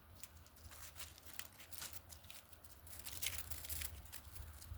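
Small tree twigs and branches being handled, with a quick irregular run of light snaps, clicks and rustles that gets busier about halfway through.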